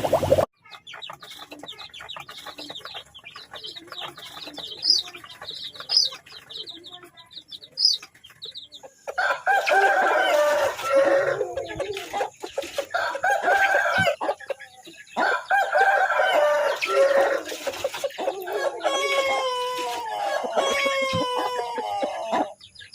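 Chickens: faint short high chirps for the first several seconds, then a rooster crowing several times in long, loud calls, the last few sliding down in pitch.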